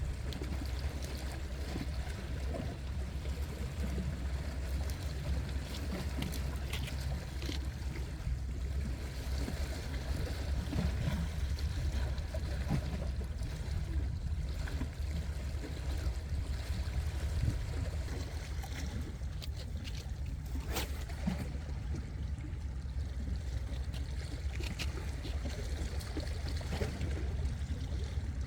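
Seaside water sloshing and lapping against a breakwater, over a steady low rumble, with a few faint clicks.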